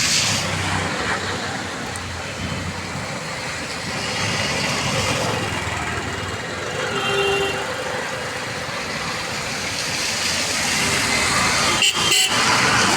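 Rain falling, a steady hiss that swells and eases, mixed with road traffic noise.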